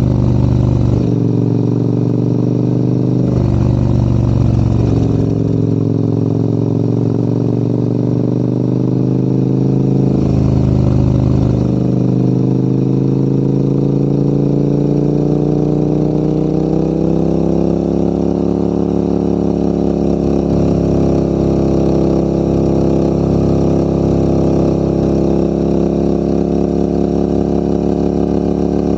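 Adventure motorcycle engine pulling uphill, its pitch shifting with throttle and gear changes during the first twelve seconds or so. The pitch then rises steadily and holds at a higher steady speed for the rest.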